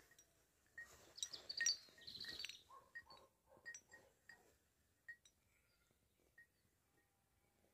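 Faint short bird calls and chirps, busiest in the first few seconds and thinning out to near silence after about five seconds.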